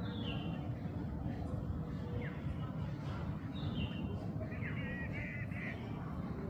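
Bulbul calling: short chirps that glide downward and warbled phrases, repeated every second or so, over a steady low rumble.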